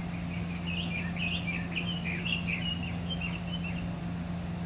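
Small birds chirping: a run of short, high chirps that stops near the end, over a steady low hum.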